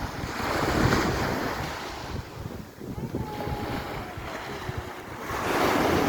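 Small waves breaking and washing up on a sandy beach, swelling twice about five seconds apart, with wind buffeting the microphone.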